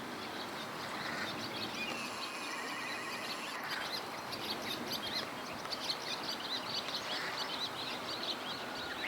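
Small birds chirping: many short high chirps in quick succession over a steady background hiss, thickening from about a third of the way in.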